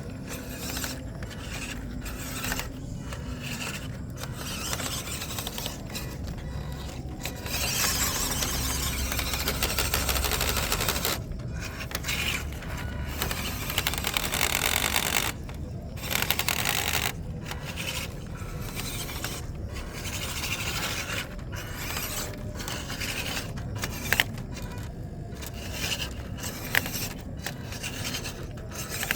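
MN99S D90 scale RC crawler driving over a wet, sticky dirt track: its tyres and chassis scrape through the mud, and its drivetrain works in stop-start bursts, loudest for a few seconds near the middle.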